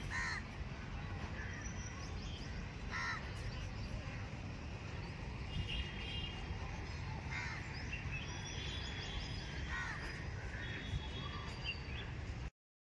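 Four short bird calls a few seconds apart, with a few fainter chirps between them, over steady low background noise. The sound cuts off abruptly near the end.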